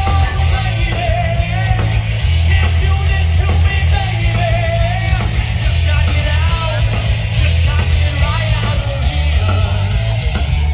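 Live rock band playing loudly, with a heavy bass-and-drum low end and a lead line that bends up and down in pitch above it.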